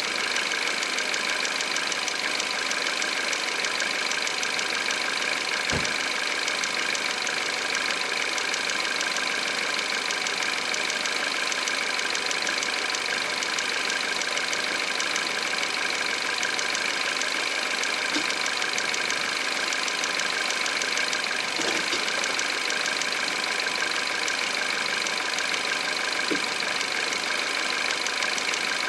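Peugeot 408's 1.6 THP turbo petrol engine idling cold, running steadily with a fast, even ticking over the hum. The owner asks whether the noise is the timing chain.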